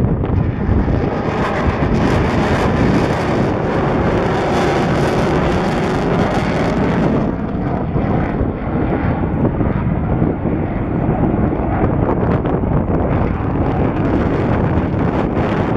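Jet noise from a Boeing F/A-18F Super Hornet's two General Electric F414 turbofan engines flying a display. Loud throughout, with a high hiss strongest for the first seven seconds, after which it turns duller. Wind buffets the microphone.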